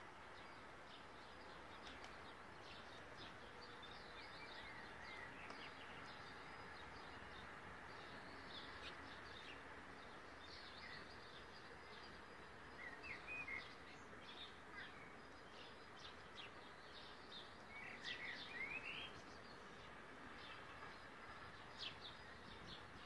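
Faint steady background hiss with birds chirping here and there. The calls are short chirps, with a few quick rising calls about thirteen and eighteen seconds in.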